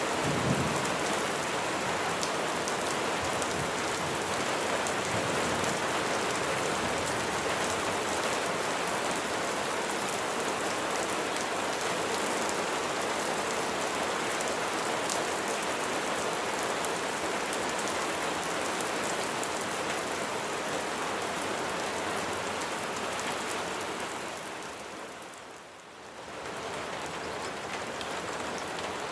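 Steady rain falling, an even dense patter, that fades to a brief lull near the end and swells back.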